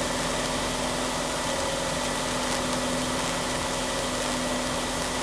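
Steady drone of a small aerobatic plane's piston engine in flight, heard in the cockpit with a constant hum of a few steady tones.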